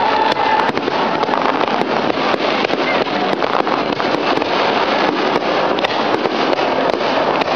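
Aerial fireworks going off without pause: a dense crackle of many sharp pops, several a second, over a steady rushing noise.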